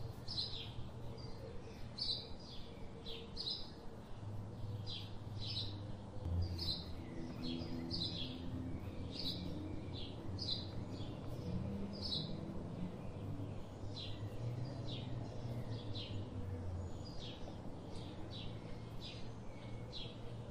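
Small birds chirping repeatedly, with short high chirps coming about one to two a second. A low hum runs underneath through the middle of the stretch.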